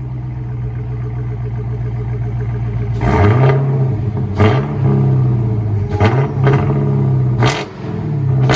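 The 2018 Dodge Challenger Hellcat's supercharged 6.2 L Hemi V8 idles through Carven R-Series performance mufflers with the rear resonators deleted. About three seconds in, the throttle is blipped several times in quick succession, each rev rising and falling sharply.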